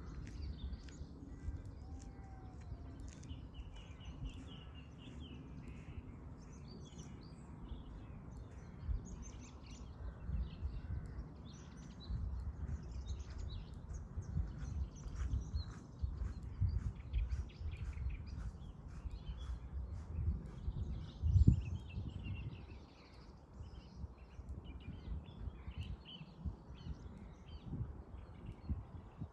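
Dawn chorus of small songbirds chirping and twittering throughout, over wind rumbling on the microphone in uneven gusts, the strongest a brief low buffet about two-thirds of the way through.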